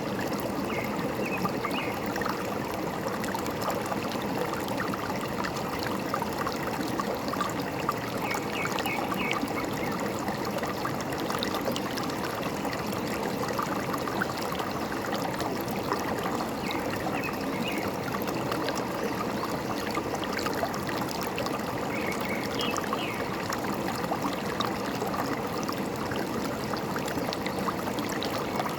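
Forest stream gurgling and trickling steadily, with a few short bursts of bird chirps now and then.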